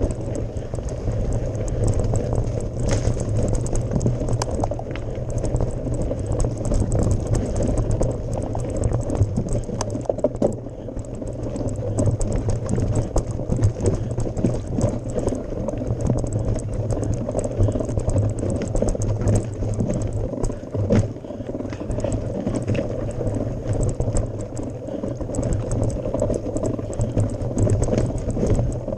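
Mountain bike climbing a gravel forest road: a continuous low rumble of tyres rolling on gravel, with frequent sharp clicks and rattles from stones and the bike.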